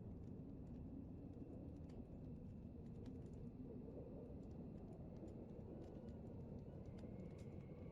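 Faint steady low rumble of background noise with light clicks and ticks scattered throughout, and a faint thin tone coming in near the end.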